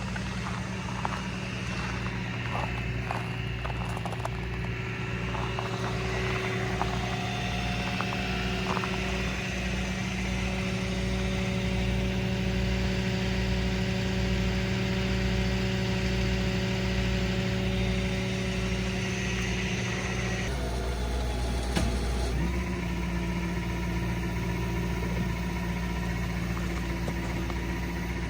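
Tow truck engine running steadily with a low, even throb. About two-thirds of the way through its sound shifts briefly, then settles back into a steady run.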